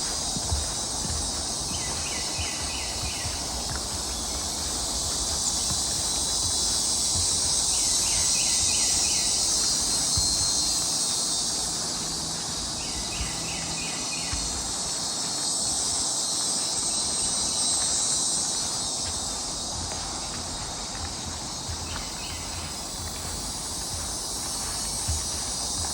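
Steady high-pitched insect chorus droning without a break. About every five seconds, four times in all, a short rapid series of chirps rises over it.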